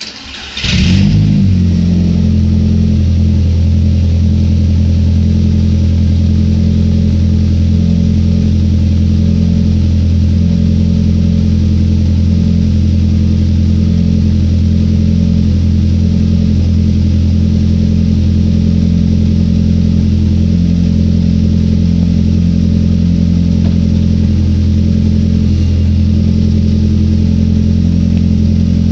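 Seat Leon 1.8 20vT turbocharged four-cylinder engine cranked by the starter and catching within about a second, then idling steadily and loudly.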